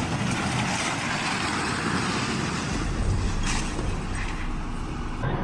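Road vehicle noise: a steady rush of engine and tyre sound, with a heavier low rumble joining about halfway through.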